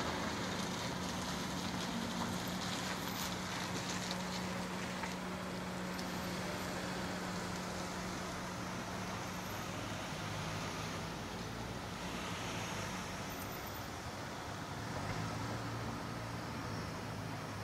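A car engine running at idle with a steady low hum, heard from inside the stationary car, over a steady hiss. The hum drops a little in pitch about ten seconds in.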